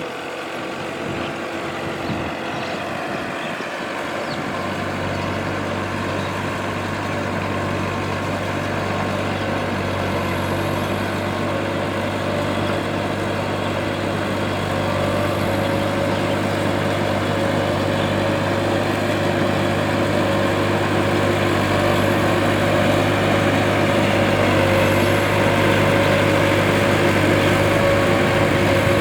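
Tractor's diesel engine running steadily, growing gradually louder.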